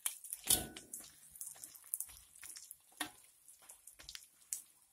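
A noodle-and-egg omelette sizzling in hot oil in a wok, with a spatula scraping and tapping against the pan in short irregular strokes, the loudest scrape about half a second in.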